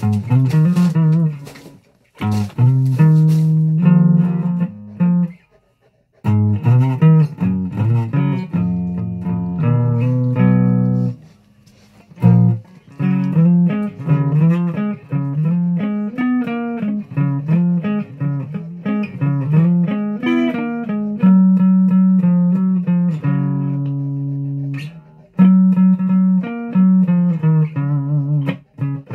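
Guitar played note by note in its low register, a single-note line that stops and restarts several times.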